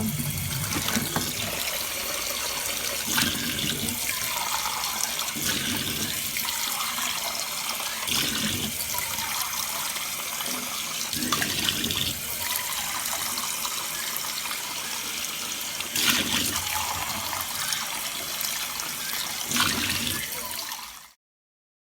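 Tap water running into a sink while a bird's food bowl is rinsed, with a few light knocks of the bowl; the running water stops suddenly near the end.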